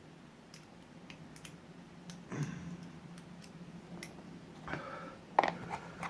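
Lock picks clicking and scraping in the keyway of an ABUS 83AL/45 padlock as the pins are worked: scattered small metallic clicks, with a sharper click about five and a half seconds in.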